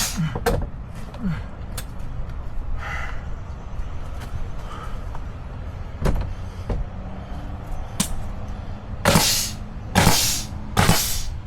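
Scattered knocks from building work on wooden shed siding, then a run of louder bangs about a second apart near the end.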